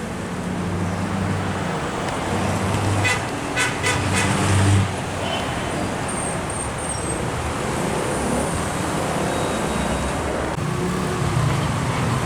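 Road traffic passing on a busy road: a heavy vehicle's engine drone builds to its loudest just under five seconds in, with a few short sharp sounds around three to four and a half seconds in, then steady tyre and traffic noise.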